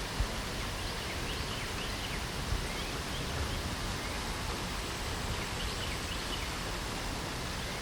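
Steady hiss of light rain with small birds chirping faintly throughout in short high notes. Two soft low thumps stand out, one just after the start and one about two and a half seconds in.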